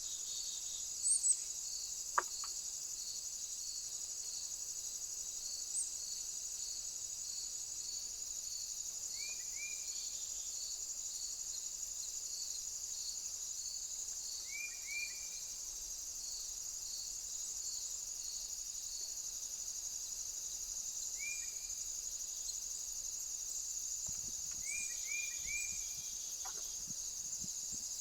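Steady high-pitched insect chorus of crickets, with a regular pulsing chirp about one and a half times a second that stops about halfway through. Small birds give short falling chirps in twos and threes a few times, and there is a faint click about two seconds in.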